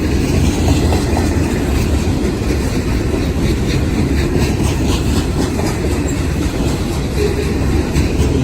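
Freight train cars rolling past: a loud, steady rumble with the wheels clicking over rail joints, most clearly in a run of clicks midway through.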